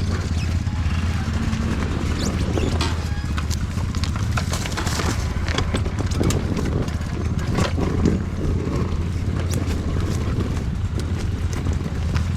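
Off-road motorcycle engine idling steadily, with scattered irregular clicks and knocks.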